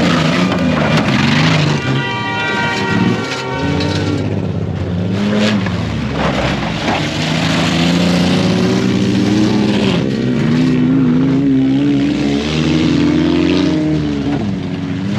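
Off-road truck engine revving hard, its pitch climbing and dropping again and again as the throttle is worked.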